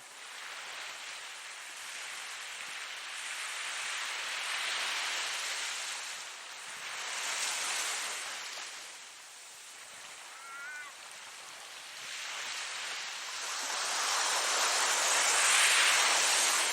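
Ocean waves breaking and washing in, rising and falling in several swells. The loudest swell builds near the end and then falls away. A short high chirp sounds about ten seconds in.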